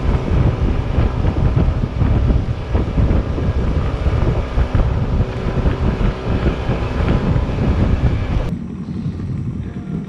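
Wind buffeting the microphone on a motor canoe under way on a river, over the low hum of its outboard engine. The noise drops off sharply about eight and a half seconds in, leaving a quieter run of engine and water.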